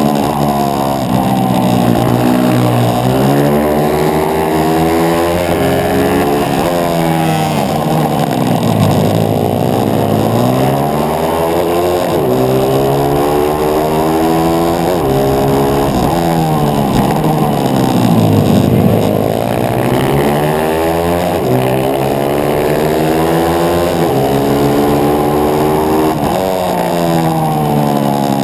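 A pit bike's small single-cylinder engine, recorded on board while racing. It revs hard and shifts up through the gears in stepped rises of pitch. Twice the revs fall away deeply as it slows for a corner, then it climbs again under acceleration.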